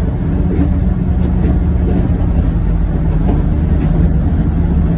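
John Deere Gator UVX 835M utility vehicle's engine running steadily, a low, even drone heard from inside its closed cab.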